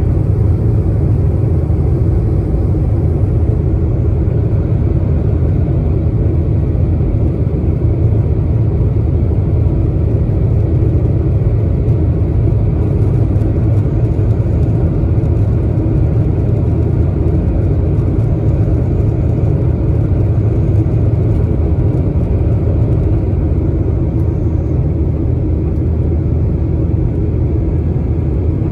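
Steady low rumble inside the cabin of a Boeing 737-800 jet airliner: engine and airflow noise, unchanging throughout.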